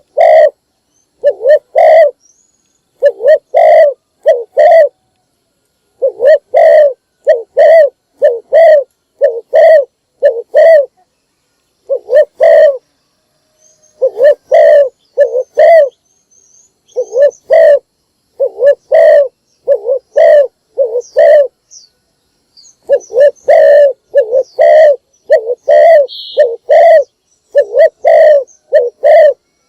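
Spotted dove cooing loudly and repeatedly, in phrases of several low hooting notes with short pauses between them.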